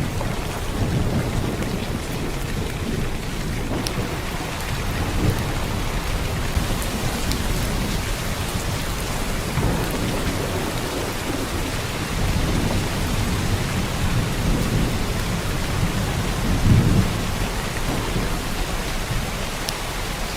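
Heavy downpour of rain, a steady dense hiss. Low rumbles swell and fade several times, the strongest near the end.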